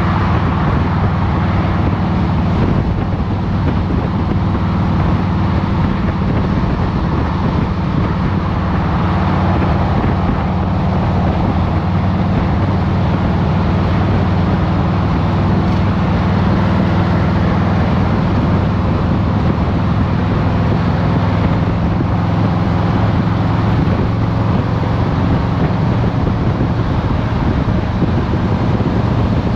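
2023 Harley-Davidson Road Glide Special's Milwaukee-Eight 114 V-twin running steadily with its stage-one exhaust, with road and wind noise.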